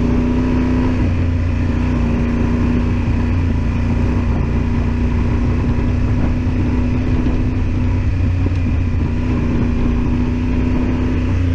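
Yamaha Super Ténéré XT1200Z's parallel-twin engine running at a steady, even speed with a deep rumble under a held engine note.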